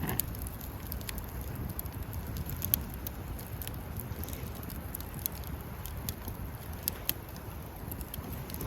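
Wood campfire crackling: scattered sharp pops and snaps over a steady low rumble of the burning fire.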